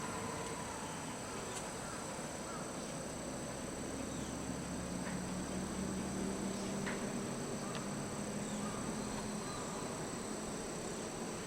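Insects singing steadily in a high, continuous chorus. A low engine hum rises for a few seconds in the middle and then fades.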